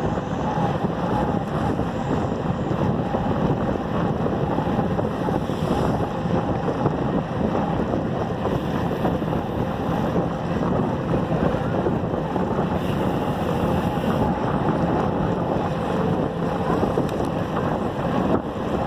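Wind rushing over the microphone of a camera carried on a moving bicycle: a steady, loud rushing noise.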